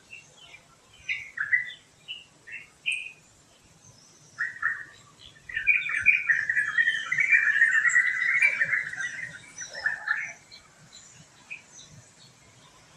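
Wild birds calling: scattered short chirps, then a dense stretch of chattering calls from about five and a half to ten and a half seconds in, then a few faint chirps.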